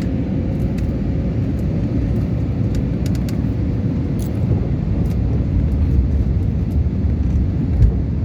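Steady low rumble of a jet airliner's engines, with a faint steady hum above it and a few light clicks.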